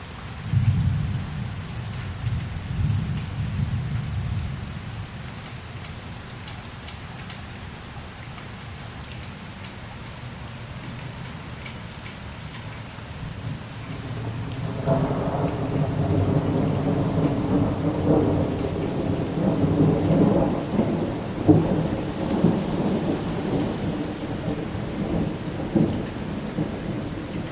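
Thunder rolling over steady rain during a severe thunderstorm. A low rumble comes just after the start and fades after a few seconds. About halfway through, a longer, louder roll builds and keeps rumbling, with a few sharper cracks.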